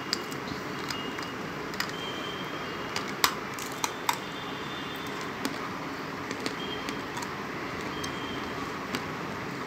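Hard baked clay being chewed: sparse, sharp crunches and clicks, a few every second or two, over a steady background hiss.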